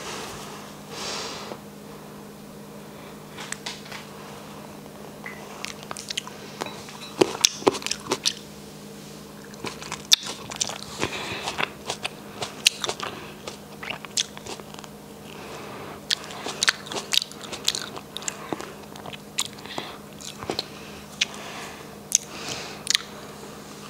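Close-miked biting and chewing of whole red grapes pulled off a wooden skewer: irregular wet, crunchy bites and mouth clicks, over a faint steady hum.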